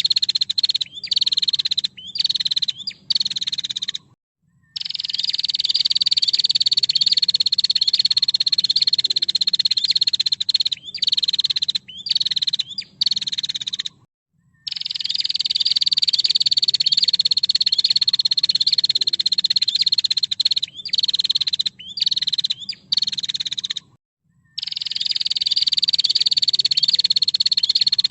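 Female prenjak (prinia) call: a long, fast, buzzy high trill that drops slightly in pitch at the start of each phrase, broken by short stutters and brief pauses. The same phrase comes back about every ten seconds, as a looped recording.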